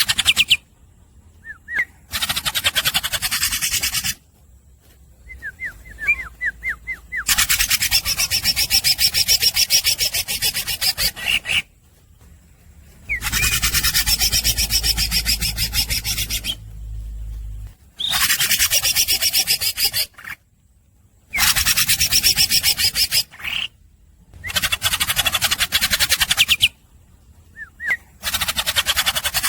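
Green leafbird (cucak ijo) singing its rapid buzzing 'tembakan' rattles, each a few seconds long and repeated after short pauses, with short rising whistled notes in between.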